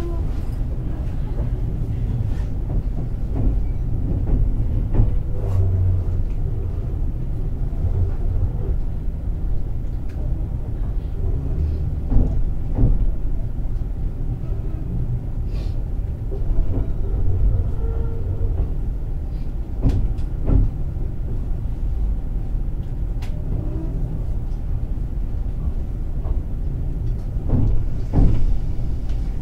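Running sound inside a JR West 223 series 2000 electric multiple unit: a steady low rumble of wheels on rail, with scattered short knocks and clicks.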